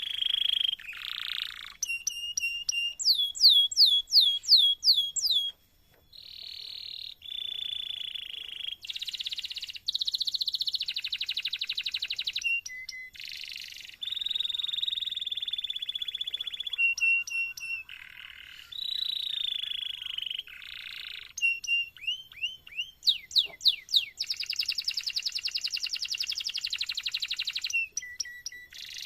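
Domestic canary singing a long unbroken song: sustained rolling trills alternate with runs of quick downward-sweeping whistle notes.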